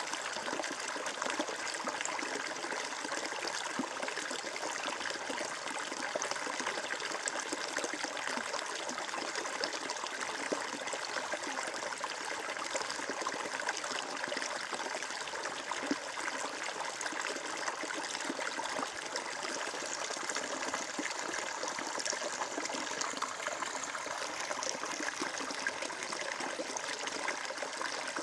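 Water flowing steadily, an even, continuous trickling and splashing like a small stream.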